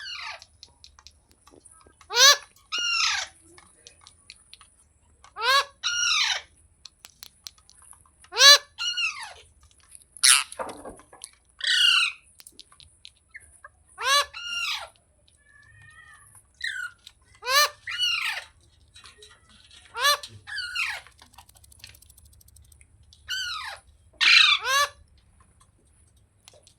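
A parrot calling: loud, harsh squawks with a bending, mostly falling pitch, often two in quick succession, repeated about every three seconds.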